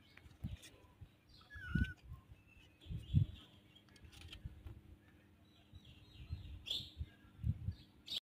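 Faint bird chirps and a short warbling call, with a few low thumps and rustles of handling.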